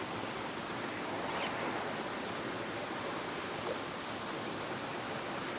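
River water rushing steadily, a constant even wash of noise.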